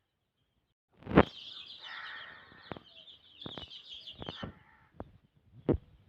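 Backyard desi chickens calling, a high sustained chirring call lasting about three and a half seconds, with several sharp knocks or taps scattered through it, the loudest about a second in.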